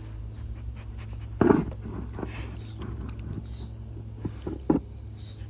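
Scraping and rustling with a few light knocks as a Labrador in a cone collar moves about and bumps things, the loudest about one and a half seconds in and another near the end, over a steady low hum.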